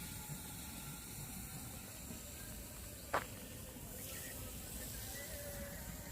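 Steady hissing outdoor background noise with faint thin tones, and a single sharp click about three seconds in.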